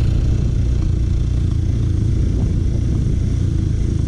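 Worn-out scooter being ridden at about 40 km/h, its engine and the ride making a steady low rumble.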